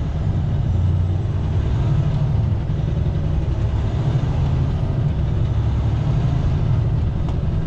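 Steady low rumble of an International LT semi truck's diesel engine and road noise, heard from inside the cab.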